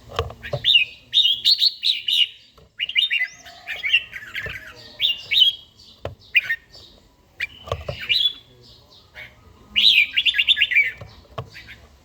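Red-whiskered bulbul singing: a run of short, quick whistled phrases, one after another, with a few low knocks in between.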